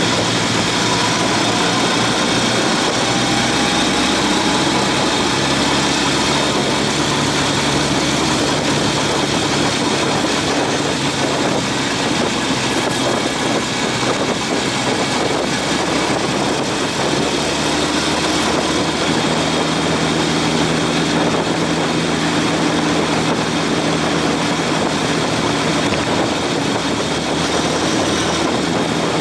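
Honda CB750 motorcycle's inline-four engine running at a steady cruising pace, with steady wind and road rush from riding.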